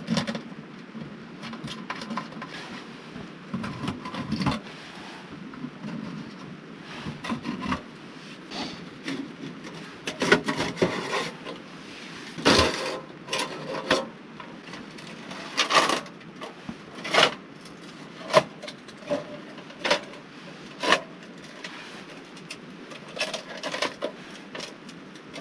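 Irregular knocks, clatters and rubbing of camping gear being handled and packed up.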